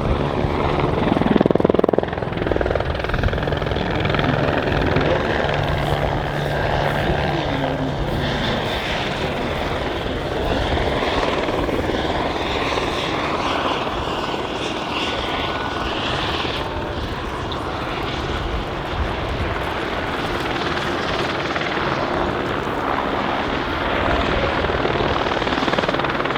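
Eurocopter AS350BA Squirrel helicopters flying a display, their rotors and turbines heard as a steady drone, loudest about a second or two in.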